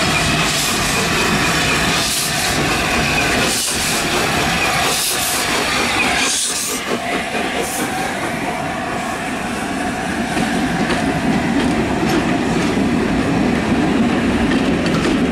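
Passenger train of LNER A4 Pacific steam locomotive 60009 coasting into the station tender-first, then its coaches rolling past, wheels clicking over the rail joints. The train slows as it arrives.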